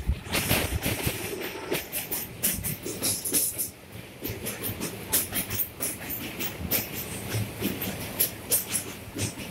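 Jannayak Express passenger train running along the track, heard from on board: wheels clattering over the rails with many irregular sharp clicks and knocks over a steady rumble.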